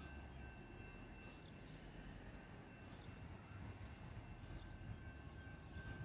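Faint low rumble of a distant approaching train, with a faint steady high tone and scattered short high chirps over quiet street ambience.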